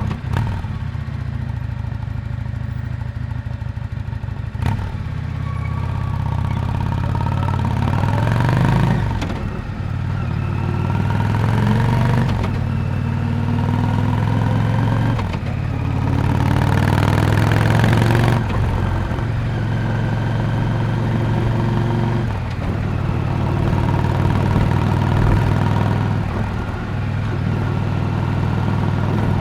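Yamaha Drag Star 400 Classic's V-twin exhaust note while riding. The revs climb and drop back several times in the middle of the stretch as it goes through gear changes, then it settles into a steady cruise. There are a couple of brief knocks in the first few seconds.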